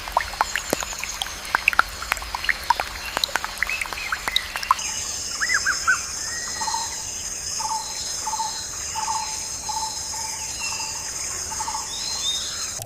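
Wild birds chirping and calling in many short sharp notes. About five seconds in, the ambience changes to a steady high drone with a run of short repeated calls, about two a second.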